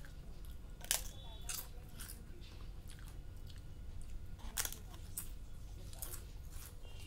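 Crisp papad being bitten and chewed: a series of sharp crunches, the loudest about a second in, with chewing in between.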